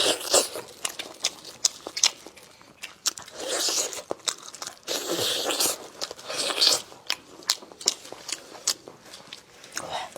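A person eating close to the microphone: crunchy biting and chewing, with many small mouth clicks and smacks and three longer crunches about a third and two thirds of the way through.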